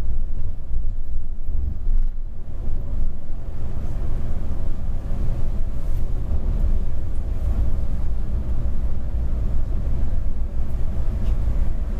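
Mercedes-Benz Travego coach under way: a steady low rumble of engine and road noise heard from aboard the coach.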